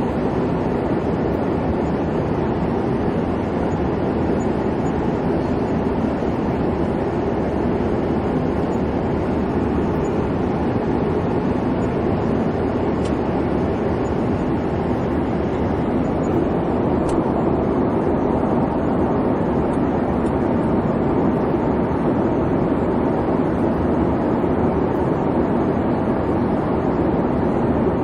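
Airliner cabin noise in flight: the steady, unchanging low rumble of the engines and airflow heard from inside the cabin.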